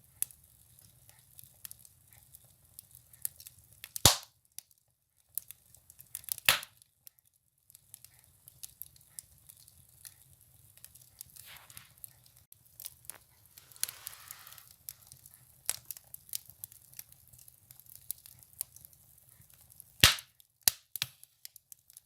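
Firewood burning in a wood stove, crackling steadily with many small snaps and three loud pops, about four, six and a half and twenty seconds in, plus a soft hiss around the middle.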